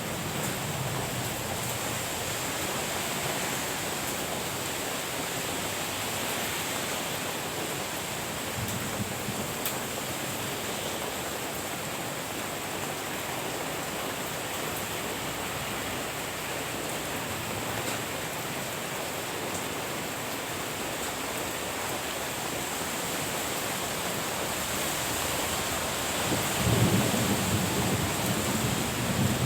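Steady rain falling, with a low rumble of thunder rising near the end.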